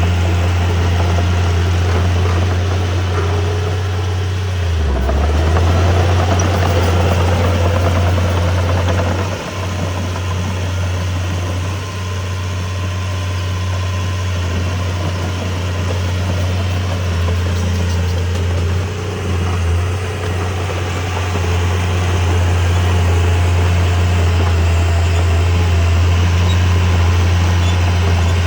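A heavy machine's diesel engine running steadily with a deep hum, dipping briefly about five seconds in.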